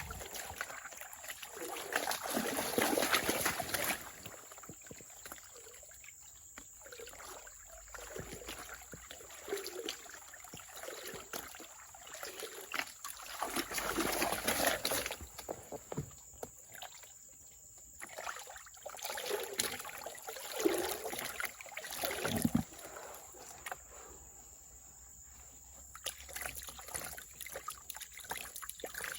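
Water sloshing and splashing in irregular surges, with quieter stretches between.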